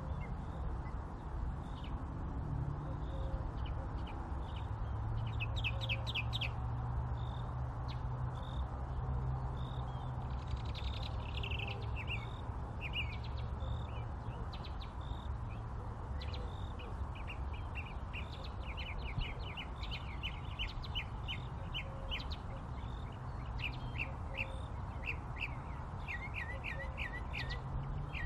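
Small birds chirping: a short high note repeated about once a second, with quick runs of chirps at times, over a steady low rumble.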